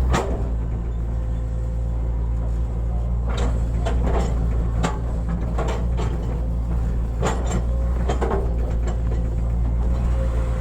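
Hitachi excavator's diesel engine running steadily under work, with a few sharp clunks and clanks scattered through: one near the start, a cluster in the middle and several more toward the end.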